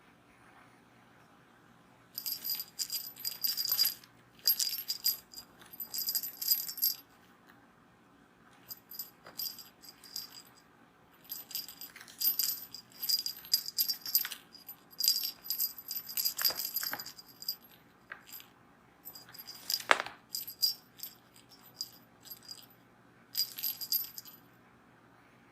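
A cat toy jingling and rattling in irregular bursts as a kitten bats it around, with quiet pauses between the flurries.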